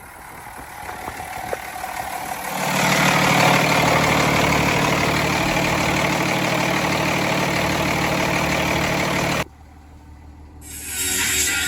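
Gravel truck's diesel engine running loudly and steadily with a broad hiss over its low hum; it comes up a few seconds in and stops abruptly about nine and a half seconds in.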